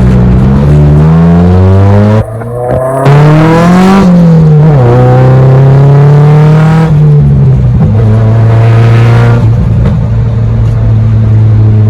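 A car engine revving hard, its pitch climbing and falling with the throttle. About two seconds in it drops off sharply, then climbs again, and through the second half it holds fairly steady revs.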